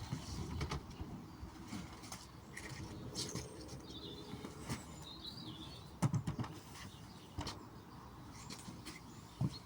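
Scattered knocks and clunks of a lid being taken off an equipment box, sharpest about six seconds in and near the end. A bird chirps faintly around the middle.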